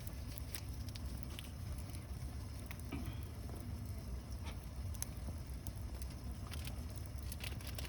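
Wood campfire crackling: scattered sharp pops over a steady low rumble.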